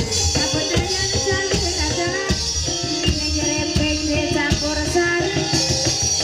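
Live ebeg accompaniment music: a melody of pitched percussion notes over a steady run of drum strokes, playing the janturan (trance) session of the hobby-horse dance.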